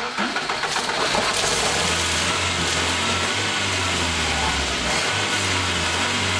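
Car engine just started, running unevenly at first and settling into a steady idle about a second and a half in, with a constant hiss from the exhaust over the low hum.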